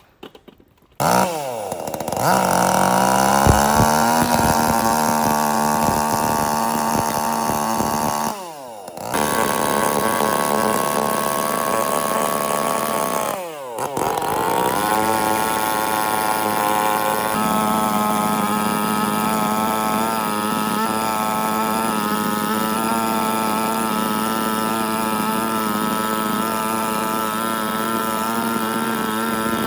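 Chainsaw starting up about a second in and running at high revs. Twice it drops briefly and revs back up, about a third of the way through and again near the middle.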